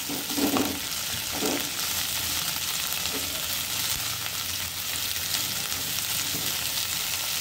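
Onions, mint and coriander leaves sizzling in hot oil in a kadai as a steel spoon stirs them: a steady frying hiss, with a few louder stirring sounds in the first two seconds.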